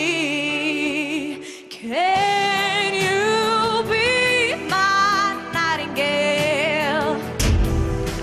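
A singer sings a slow pop ballad over instrumental backing, holding long notes with vibrato.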